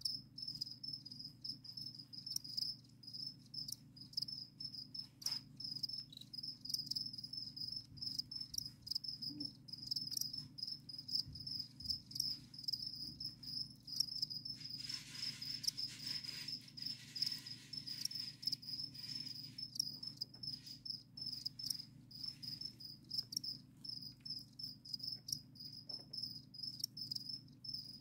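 Farmed crickets chirping steadily, a continuous high trill of rapid pulses, over a low steady hum. About halfway through, a soft hiss joins for a few seconds.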